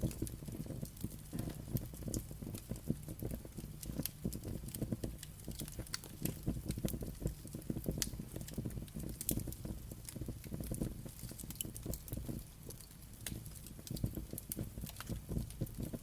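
Wood fire burning, a steady low rumble with irregular sharp crackles and pops several times a second.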